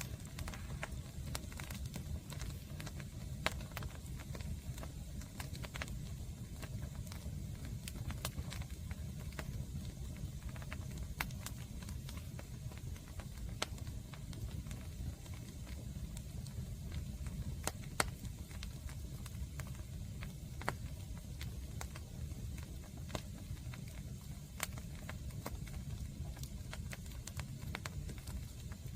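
Wood campfire burning, crackling with scattered sharp pops over a low, steady rumble.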